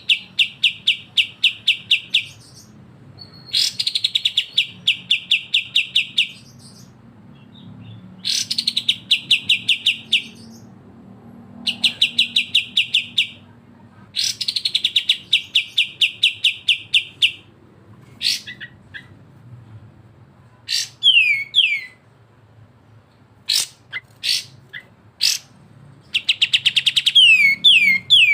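Kapas tembak and cucak jenggot bulbuls singing their rapid trilled 'besetan' song. It comes in bouts of fast repeated notes, each lasting two to three seconds, and gives way in the second half to short falling whistles and sharp single calls.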